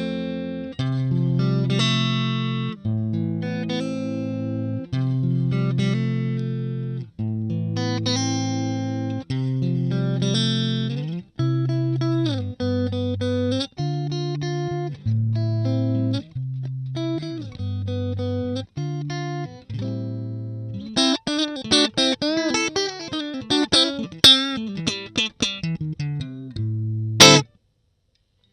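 Stratocaster electric guitar played through a Valeton Dapper Mini amp-simulator pedal: held chords with short gaps between them, then a quicker run of single notes with string bends and vibrato. Near the end comes a sharp, noisy pick strike, and the sound cuts out briefly.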